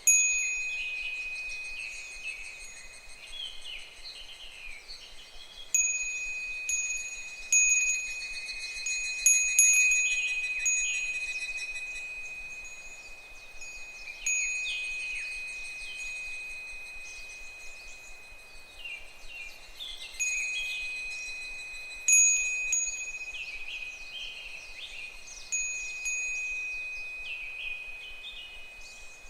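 Japanese fūrin wind chime ringing in irregular strikes, each a clear high tone that rings on and slowly fades, sometimes several in quick succession. Behind it, higurashi (evening cicadas) call faintly in short falling phrases.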